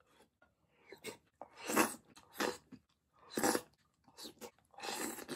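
Close-miked chewing and eating noises from a mouthful of Japanese sweet-and-sour pork, in separate wet bursts about one a second.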